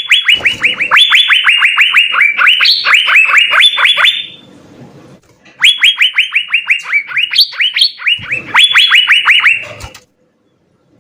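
Asian fairy-bluebird (cucak biru) singing: fast runs of short falling notes, about six a second, in three bursts with brief pauses, stopping about a second before the end.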